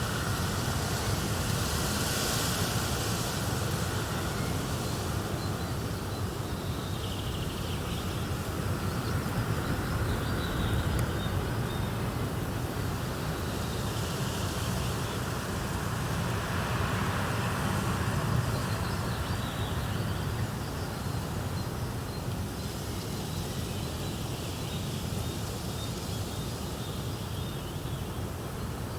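Relaxation soundscape of fireplace and nature ambience: a steady noise with a low rumble, and faint high chirps now and then.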